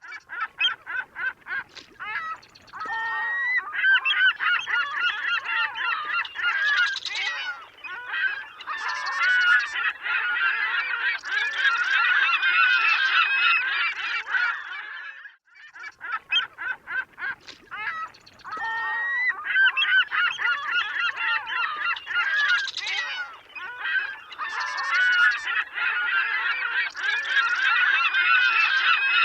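A flock of gulls calling over one another in a dense, continuous chorus, opening with a quick run of short calls. The same stretch of calls starts over after a brief dip about halfway through, as a loop.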